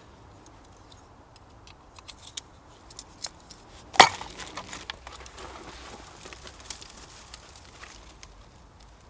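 Scattered small clicks and clinks, with one sharp knock about four seconds in.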